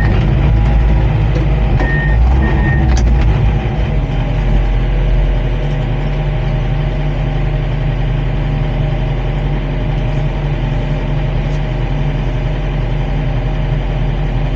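Komatsu D39PX bulldozer's diesel engine running, with short backup-alarm beeps in the first few seconds. From about four seconds in it runs steadily a little lower.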